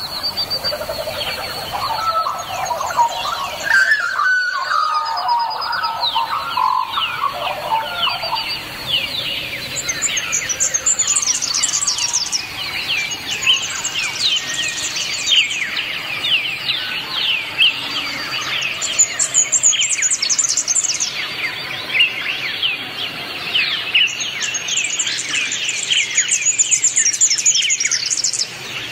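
Dense chorus of birds chirping, many quick, overlapping downward-sliding chirps throughout, with a lower-pitched call mixed in for the first eight seconds or so.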